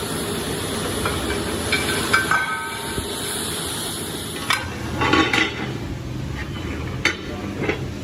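Steady workshop machinery noise with a low hum, broken by several sharp metallic knocks and clanks from about two seconds in.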